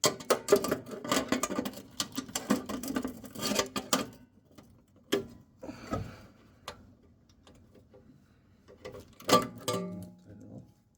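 Rapid clicking and tapping of tools on the car's sheet-metal sill for about four seconds, then scattered single knocks and a short burst of clatter with a brief ring near the end, as the sill end plate is positioned.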